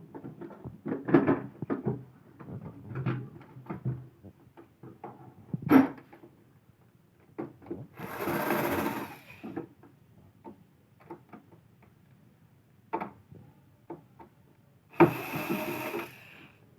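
Clicks, knocks and rattles of plastic parts being handled while a vacuum cleaner is dismantled. A small motor whirs twice, each time for about a second: once about eight seconds in, and again near the end.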